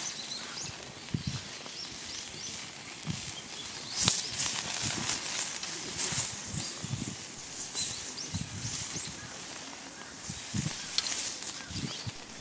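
Wood fire crackling in a small fire pit, with scattered sharp pops over a steady hiss and irregular soft low thumps; one louder pop about four seconds in.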